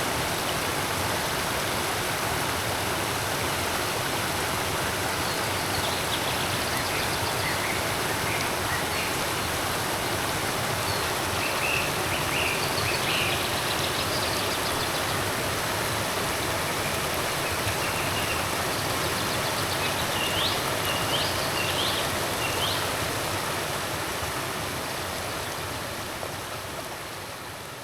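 Forest creek water flowing steadily, with short bird chirps now and then. The sound fades out near the end.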